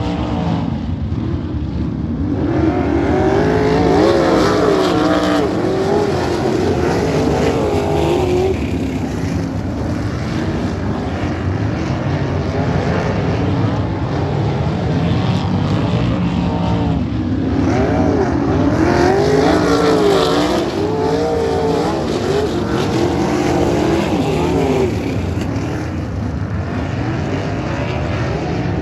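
Sprint cars racing on a dirt oval, their V8 engines rising and falling in pitch as the drivers go on and off the throttle through the turns. The sound swells twice as the pack passes close.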